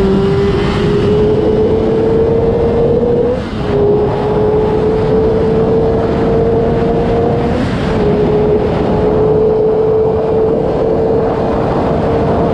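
2026 Honda CBR600RR's inline-four engine at high revs, pulling hard through the gears: the pitch climbs slowly, dips briefly with an upshift about three and a half seconds in and again near eight seconds, then climbs again. Wind rush runs underneath.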